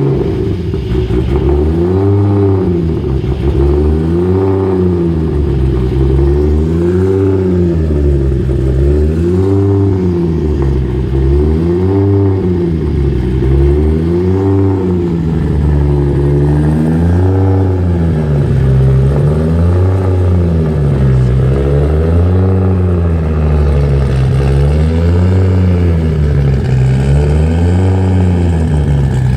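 Mk4 Toyota Supra's inline-six engine idling, its speed rising and falling evenly about every two seconds.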